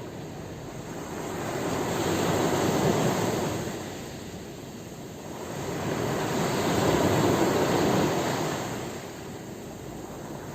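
Sea waves washing in, two surges of surf that swell and fade, one after the other.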